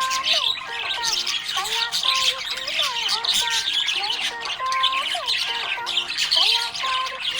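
Budgerigars chirping and chattering without pause: a dense stream of quick chirps mixed with short whistled glides and held notes.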